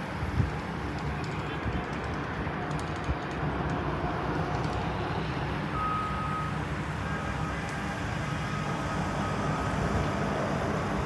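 Steady low rumble of vehicle traffic, with a brief high steady tone about six seconds in.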